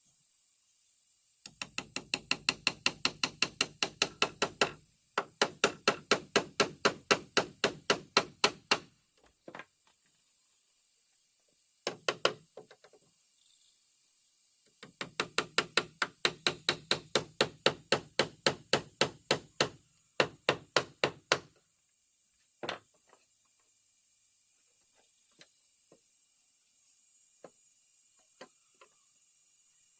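Hammering on wood: three runs of rapid, evenly spaced blows, about five a second, each lasting a few seconds, with a few single knocks between and after them.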